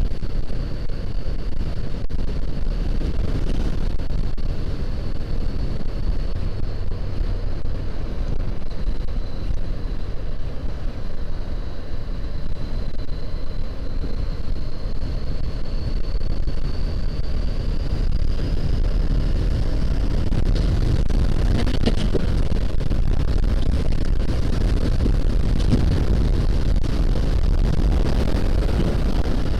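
2014 Honda CBR500R's parallel-twin engine running under way, mixed with steady wind rush on the action camera's microphone. A faint high whine drifts slightly upward in pitch about two-thirds of the way through.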